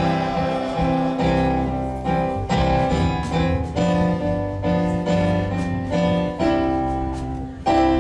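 Piano playing slow, held chords, a new chord struck about once a second.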